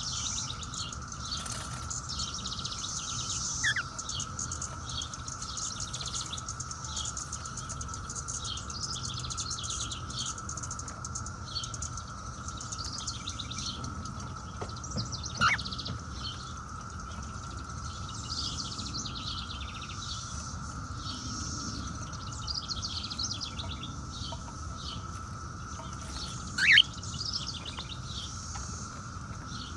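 Steady droning chorus of 17-year periodical cicadas, with frequent short bird chirps over it. Cockatiels give three louder rising calls: a few seconds in, midway, and the loudest near the end.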